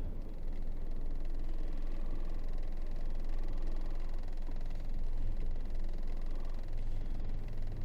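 Isuzu 8x4 heavy truck's diesel engine running with a steady low rumble while driving, its note deepening slightly a few seconds in.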